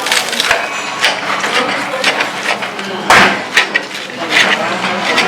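Clatter of dishes and cutlery with many short knocks and clinks over background chatter in a restaurant dining room, with one sharp knock about three seconds in.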